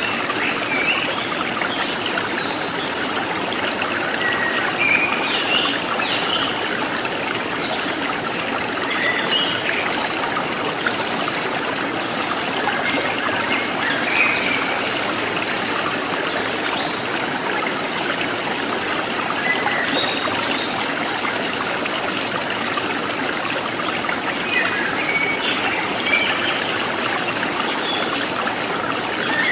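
Forest stream trickling and splashing steadily, with short high bird chirps scattered over it every few seconds.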